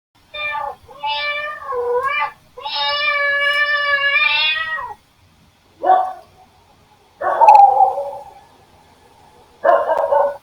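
A domestic cat meowing: three short wavering meows, then one long drawn-out meow of about two and a half seconds. These are followed by three shorter, rougher calls.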